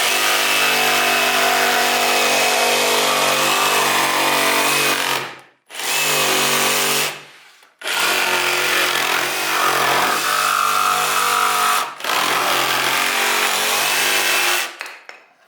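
Ryobi 18V ONE+ R18JS7-0 cordless pendulum jigsaw cutting a curve in a piece of wood. It runs in three bursts: about five seconds, then a short one of about a second, then about seven seconds with a brief dip partway through, and stops between them.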